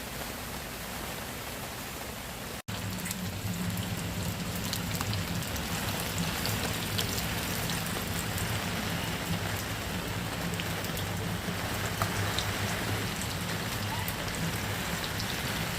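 Rain falling on a tent: a steady hiss of drops with many small ticks. An edit cut comes about two and a half seconds in, after which the rain is louder.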